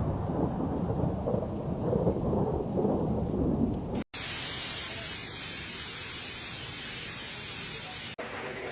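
Storm sounds: a low, uneven rumble of thunder for about four seconds, then an abrupt cut to the steady hiss of heavy rain.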